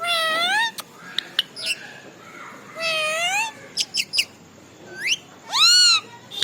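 Indian ringneck parrot calling: a series of rising, meow-like whistled calls with short sharp chirps between them. The last arched call near the end is the loudest.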